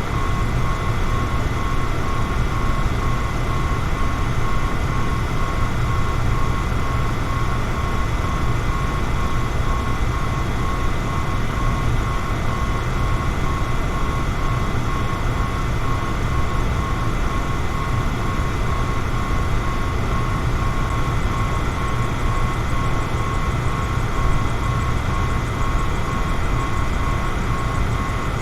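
Electric fan running steadily: a low rushing hum with a thin, steady whine held above it.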